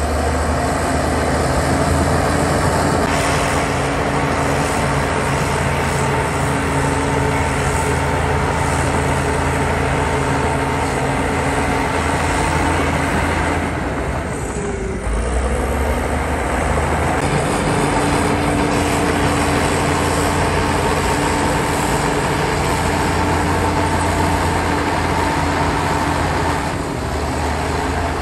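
Heavy diesel engine of earthmoving machinery running steadily under load. About halfway through, its note dips briefly and then picks back up.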